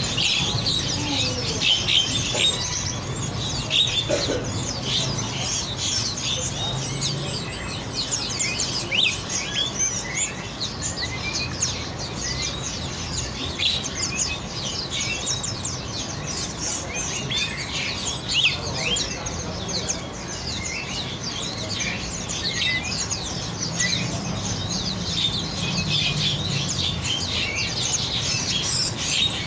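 Many songbirds chirping and singing together in a dense, unbroken chorus of quick high chirps and fast sweeping notes, over a low steady hum.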